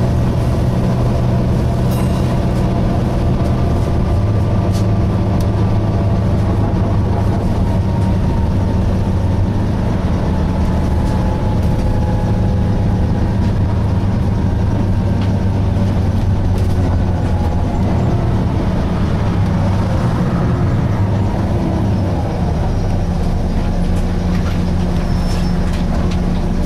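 Volvo B9TL double-decker bus heard from on board, its diesel engine and drivetrain running with a steady low drone. Faint whines slide up and down in pitch, most clearly around twenty seconds in, over occasional light rattles and clicks.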